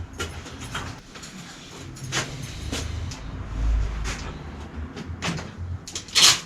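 Scattered knocks and clicks of parts and tools being handled, with a low rumble about halfway through and one sharp, loud clatter near the end.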